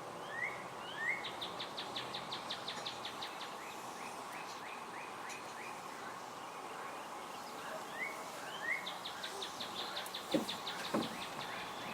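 A songbird singing two phrases, each a few short rising chirps, then a fast high trill, then a string of lower falling notes, over a steady background hiss. Two short knocks sound near the end.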